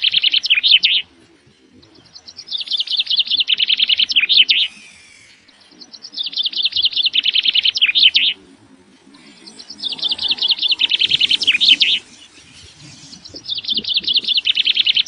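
A songbird singing the same rapid trilled phrase over and over, each phrase about two seconds long and ending in a short flourish, repeated about every three and a half seconds.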